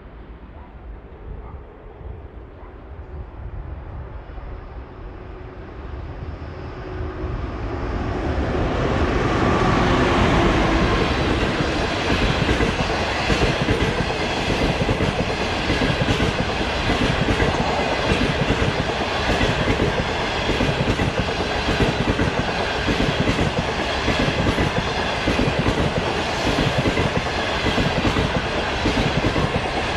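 Passenger express train passing slowly. Its rumble grows louder over the first several seconds, then turns into a steady, rhythmic clickety-clack of wheels over rail joints as the carriages roll by.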